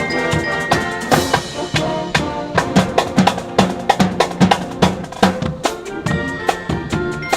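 High-school marching band playing: a drumline keeps a steady beat of about two to three strikes a second under held brass notes.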